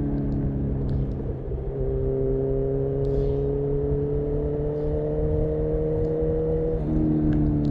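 A 2018 Honda CB1000R's inline-four engine running through a full aftermarket exhaust under way. Its note steps up about two seconds in and climbs slowly while accelerating, then drops sharply near the end with a gear change. Low wind rumble runs underneath.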